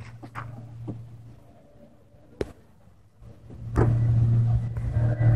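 Small kids' dirt bike engine running steadily, fading away, then growing loud again about two thirds of the way through as the bike comes close. A single sharp click near the middle.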